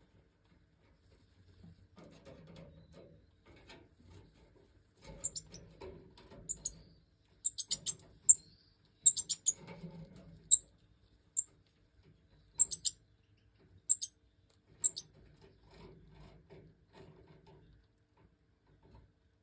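Goldfinches giving short, thin, very high squeaky chirps, about a dozen of them in irregular clusters, starting about five seconds in and stopping about five seconds before the end, over faint rustling.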